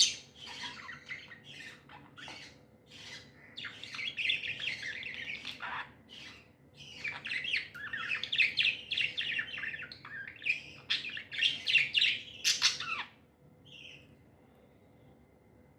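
Budgerigars chattering, a dense run of quick chirps, warbles and squawks that dies away about thirteen seconds in, leaving one faint call.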